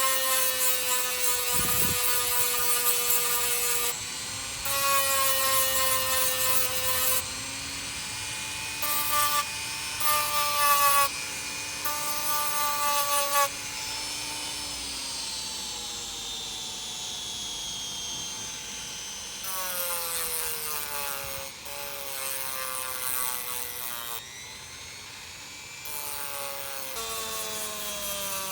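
Small electric power tool, drill-like, grinding metal in repeated passes. The motor's tone sags and recovers as it is loaded, under harsh grinding noise that comes and goes every few seconds. A long slow drop in pitch comes in the middle, and the tool picks up speed again about two-thirds of the way through.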